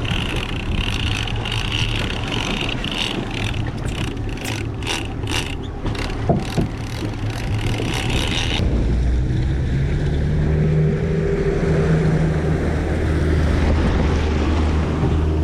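Boat engine running while trolling, with wind on the microphone. A run of short ticks sounds through the middle, and about two-thirds of the way through the engine settles into a steadier, slightly louder hum.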